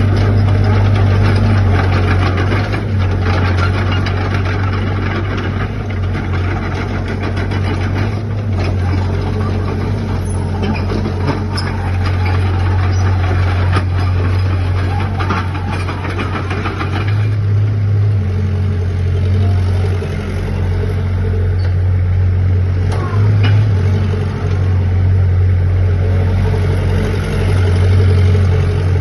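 SANY SY60C mini crawler excavator's diesel engine running with a steady low hum, a busier mechanical noise over it that eases off a little over halfway through.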